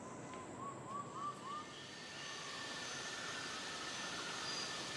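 Forest ambience: a bird gives a quick series of short, arched whistled notes in the first second and a half. Then a steady hiss grows slightly louder, with faint high tones over it.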